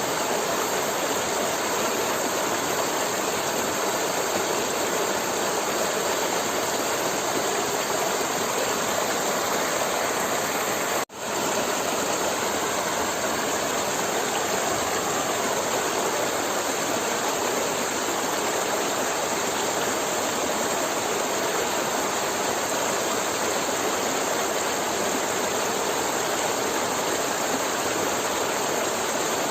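River water flowing steadily, a continuous even rush that cuts out for an instant about eleven seconds in.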